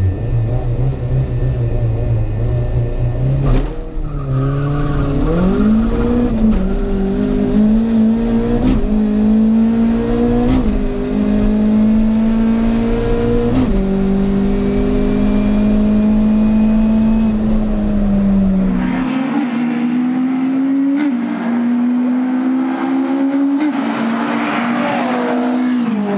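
Mk1 Volkswagen Golf 16v engine heard from inside the car during a quarter-mile drag run: it idles at the line, launches and revs up through several gears, its note dropping back at each upshift.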